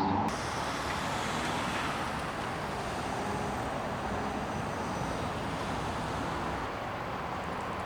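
Steady street traffic noise, an even wash of passing vehicles, beginning abruptly just after the start.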